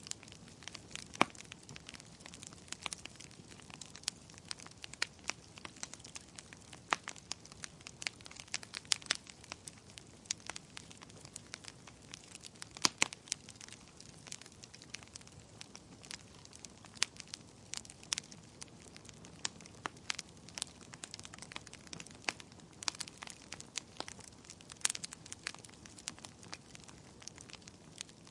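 Wood bonfire crackling: irregular sharp pops and snaps over a soft, steady hiss of burning.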